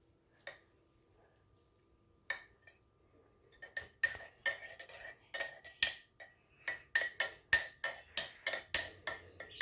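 A spoon clinking against the inside of a cup as coffee is stirred. The clinks are sharp and ringing, starting slowly about two seconds in and quickening to three or four a second.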